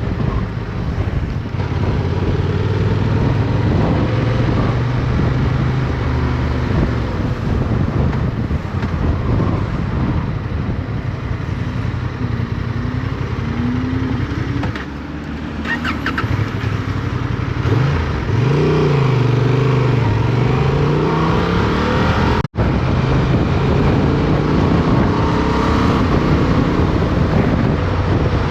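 Motorcycle engine running under way with wind noise on the onboard microphone. About eighteen seconds in, the engine note rises, falls and rises again as the rider revs through the gears, and the sound cuts out for an instant a few seconds later.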